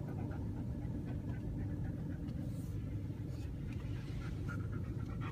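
Steady low rumble of a car's engine and tyres, heard from inside the cabin.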